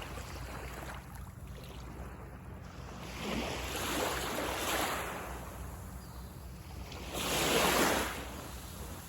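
Small sea waves breaking and washing up on a sandy beach, two swells of surf, the louder near the end, over a steady low rumble.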